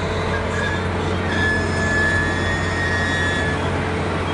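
Freight train boxcars rolling slowly past, steel wheels on the rails giving a steady rumble, with a high steady wheel squeal for about two seconds in the middle.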